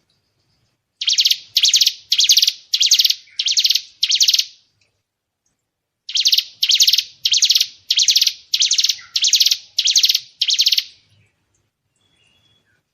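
A songbird giving two runs of loud, quickly repeated notes, about two a second, with a pause of under two seconds between the runs. This is a 'tembakan' (rapid shooting) phrase of the kind used as training song for white-rumped shamas.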